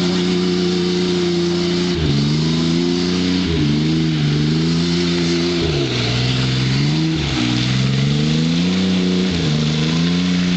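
Vehicle engine revving under load while climbing a slippery mud hill, its pitch dropping sharply and climbing back up about five times as the throttle and load change.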